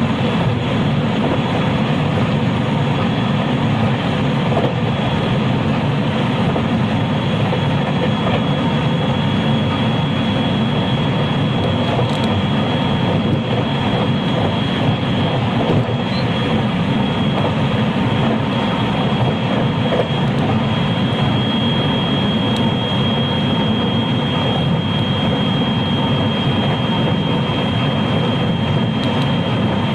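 JR West 223 series electric train heard from inside motor car KuMoHa 223-3016, running steadily between stations: even rolling rumble with a steady high whine over it.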